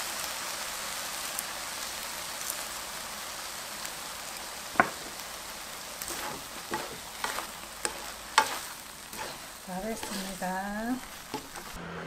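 Fish cake strips sizzling steadily in a hot pan while two wooden spatulas stir and toss them, with sharp knocks of the spatulas against the pan, the loudest about five and eight and a half seconds in.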